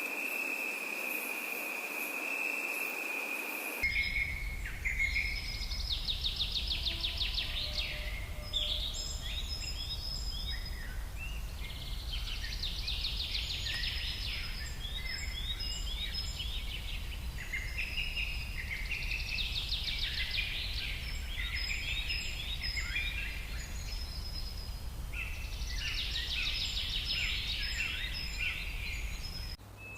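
Birds singing: bursts of high, rapid trills and chirps that recur about every seven seconds, over a steady low rumble. The first four seconds hold a steady high tone with hiss before the song begins.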